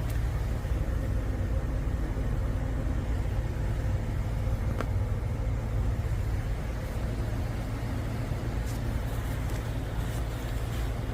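A car engine running steadily with a deep, even rumble.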